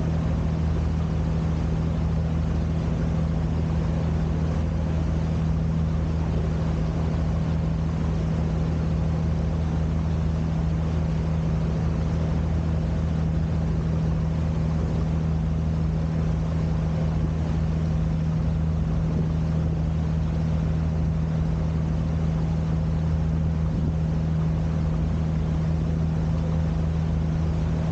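Sightseeing boat's engine running steadily, a constant low drone that does not change in pitch or level.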